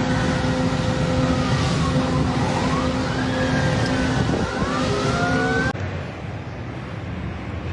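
Several emergency-vehicle sirens wailing, rising and falling, over a loud rushing noise; the sound cuts off abruptly about six seconds in, leaving a quieter steady rumble.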